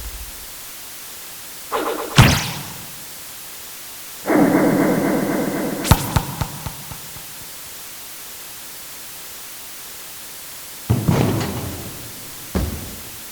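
Sports sound effects: separate sharp ball hits, each dying away briefly, with a held harsh tone lasting about a second and a half from about four seconds in. The first part is volleyball; the last hits fall in the basketball section.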